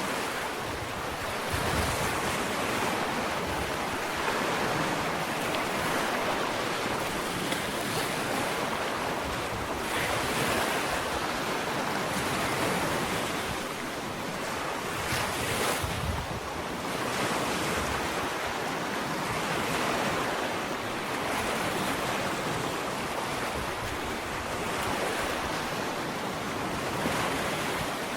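Ocean waves breaking and washing onto a sandy beach, a continuous surf rush that swells and eases every few seconds, with wind on the microphone.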